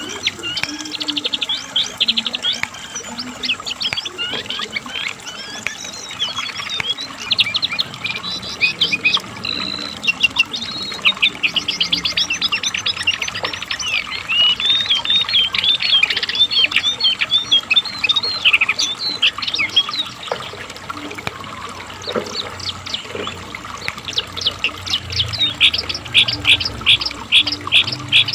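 Cingcoang coklat (jongkangan, the lesser shortwing) singing a long, fast song of high chirps and trills, ending in a run of quick repeated notes.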